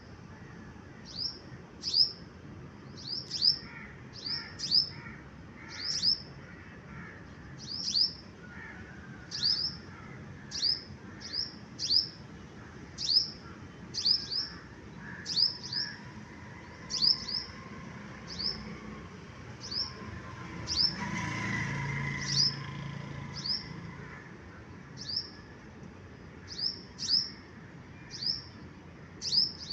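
A songbird calling over and over with short, high chirps, each a quick downward sweep, about one or two a second. A broad rush of background noise swells briefly about two-thirds of the way through.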